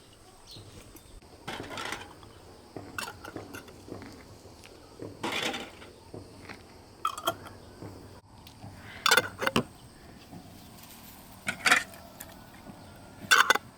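Kitchenware being handled: a series of separate short clinks and knocks, about one every one to two seconds, at an uneven pace.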